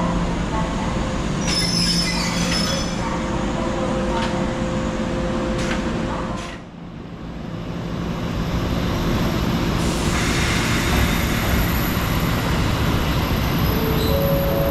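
A train running on rails, with a steady rumble and a few held tones, and brief high-pitched wheel squeal a couple of seconds in. The sound drops away for a moment around the middle, then the running noise comes back and holds steady.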